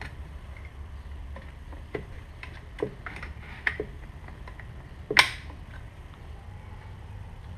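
Scattered small clicks and knocks of parts and tools being handled while the trolling motor's head unit and wires are taken apart, with one sharper, louder clack about five seconds in, over a steady low hum.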